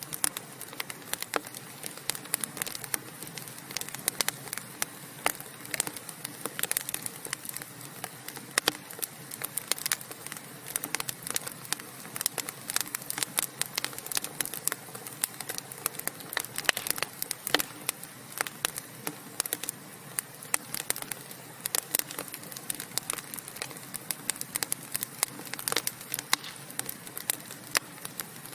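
Burning wood logs crackling and popping steadily, with many sharp irregular snaps over a soft steady hiss.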